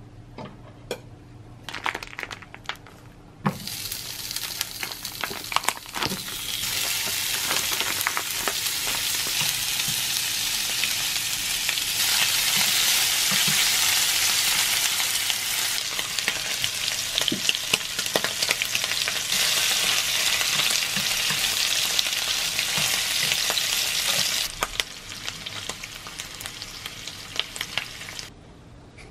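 Smoked duck slices sizzling as they fry in a pan, with clicks of wooden chopsticks stirring them against the pan. After a few taps, the sizzling starts a few seconds in, grows louder through the middle, drops off, and stops shortly before the end.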